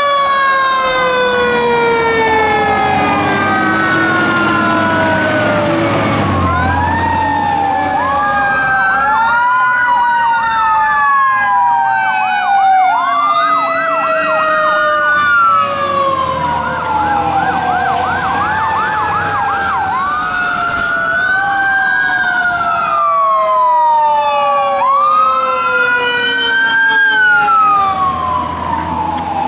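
Fire truck sirens: a mechanical siren winding down in a long falling whine, then electronic sirens cycling through rising-and-falling wails about every three seconds, with stretches of fast yelp.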